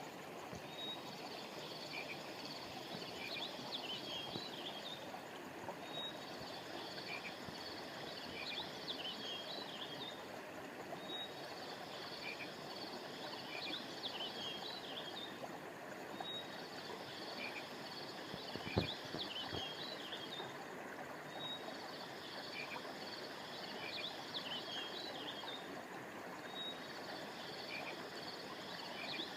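River water flowing steadily under high bird chirps. The same short burst of chirps repeats about every five seconds. One low thump comes about two-thirds of the way through.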